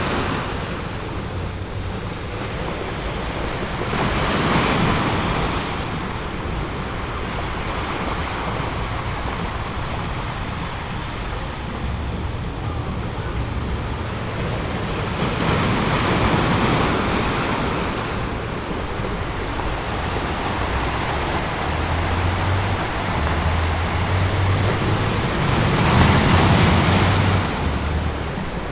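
Ocean surf: waves rolling in and washing back, swelling to louder surges several times, about ten seconds apart.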